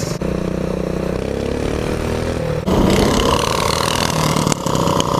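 Mini bike's small single-cylinder engine running under way. Its note sinks a little at first, then turns suddenly louder and rougher about two and a half seconds in.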